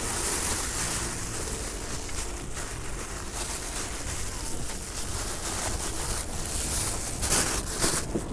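Wind buffeting the microphone while riding a motorcycle, with the engine running as a steady low rumble underneath.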